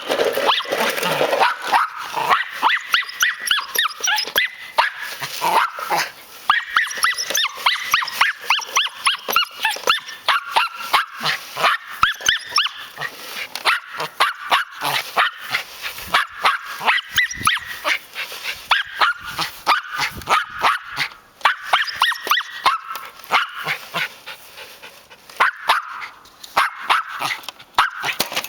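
Dog barking and yapping non-stop, several high-pitched barks a second, at a lawn mower it treats as an enemy.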